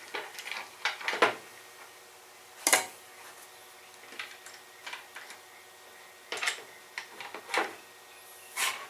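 Router table fence being handled and fitted onto the cast iron table: a series of separate knocks and clicks spread over several seconds.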